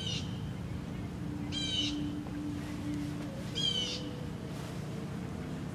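A bird gives three short harsh calls, about two seconds apart, over a steady low background rumble.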